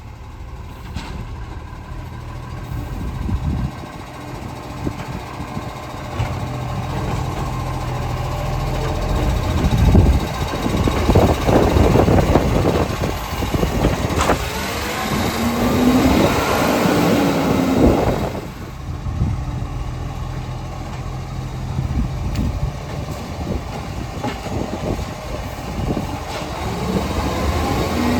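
Side-loader garbage truck's engine running, getting louder through the middle, with a short whine that rises and falls a couple of times.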